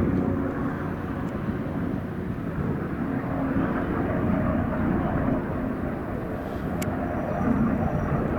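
Helicopter flying overhead: a steady low drone of its rotor and engine, with a short click about seven seconds in.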